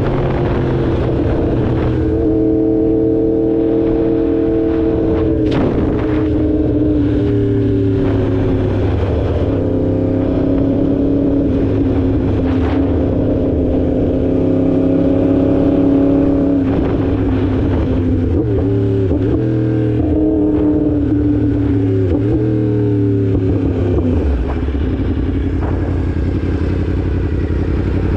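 A 2016 Yamaha R1's inline-four engine running under way, holding steady revs for stretches with several changes in pitch as the throttle and gears change, the engine note dipping and climbing again a few times.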